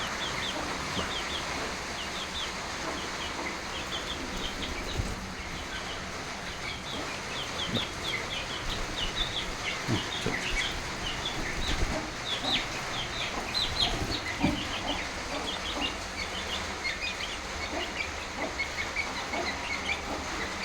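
Chickens in a yard: a busy stream of short, high chirps over occasional clucking, with a few dull thumps near the middle.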